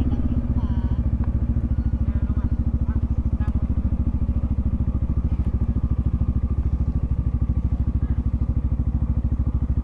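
Yamaha XMAX 300 scooter's single-cylinder engine running steadily at low speed, with an even low pulsing beat.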